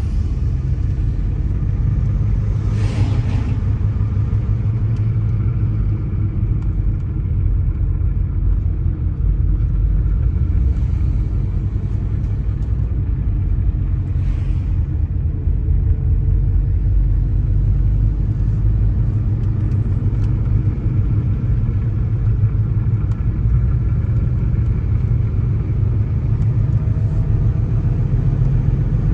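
Steady low road and engine rumble of a car being driven, with two brief swishes, about three seconds in and again near the middle.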